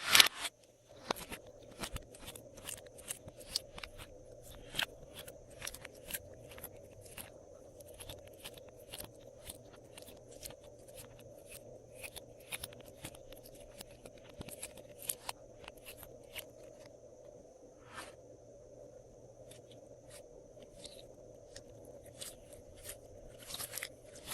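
Slime being squished and mixed by hand, giving irregular sharp crackles and pops, a few to several a second.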